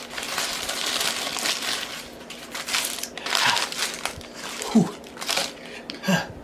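Paper fast-food packaging crinkling and rustling as a McDonald's Happy Meal is opened and handled, busiest in the first couple of seconds. Two short falling voice sounds come in the second half.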